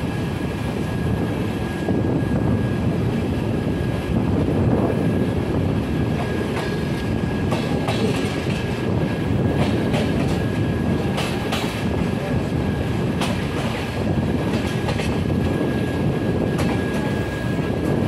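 Passenger train coach running on the rails, heard from its open doorway: a steady rumble of wheels on track with a thin, steady high whine over it. A run of sharp clicks and knocks comes from about six to fourteen seconds in, as the wheels cross rail joints and points.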